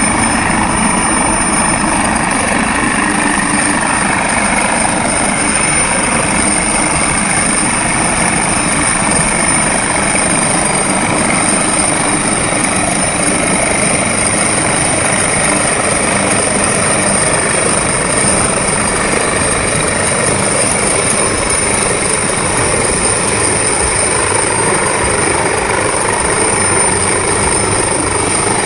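Rescue helicopter hovering close by: loud, steady rotor and engine noise with a thin high whine on top.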